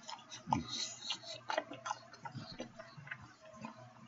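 A man chewing a mouthful of steak sandwich close to the microphone: irregular clicking and smacking mouth sounds, busier in the first couple of seconds and sparser after.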